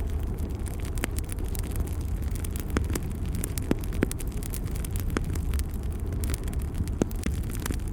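Wood fire burning in a fireplace: a steady low rumble with frequent small crackles and a couple of sharper pops, about four and seven seconds in.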